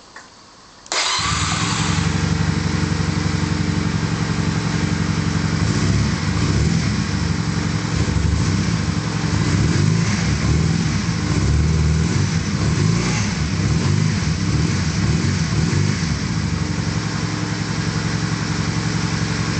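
The 125cc engine of a 2012 AJS Regal Raptor DD125E motorcycle fires up suddenly about a second in and then runs steadily. The engine is new, at 145 miles and still being run in, and sounds healthy to its owner.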